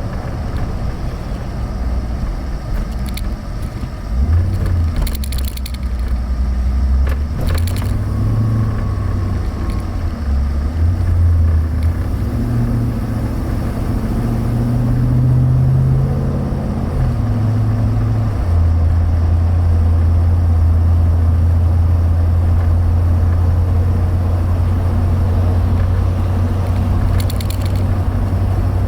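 Chevrolet Avalanche's 5.3-litre V8 and road noise heard from inside the cab while driving. The low engine hum rises and falls in pitch through the first part, then holds steady at a constant pitch from about two-thirds of the way in. A few short clicks or rattles come through.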